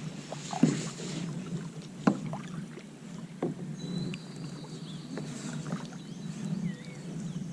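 Kayak paddles dipping and splashing in calm canal water, a clear stroke about every second and a half early on, over a steady low wash of water.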